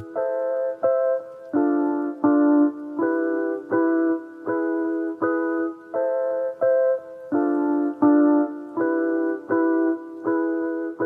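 Background music: a piano playing a slow pattern of repeated chords, about one every three-quarters of a second.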